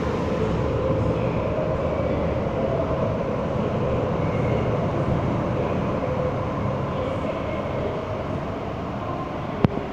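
Hong Kong MTR metro train running: a steady rumble with a faint whine on top, easing a little in the last few seconds, and a sharp click near the end.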